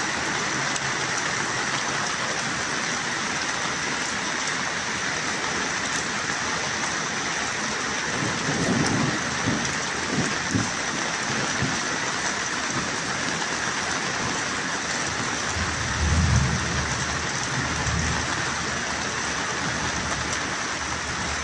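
Steady heavy rain falling, a dense even hiss, with two short low rumbles, one about eight seconds in and another about sixteen seconds in.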